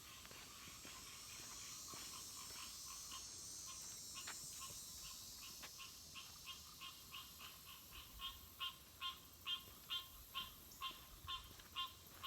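Unidentified swamp animals calling in quick, repeated short notes, about two or three a second, faint at first and much louder in the second half; the walkers take them for alarm calls at their presence. A faint high hiss underlies the first half.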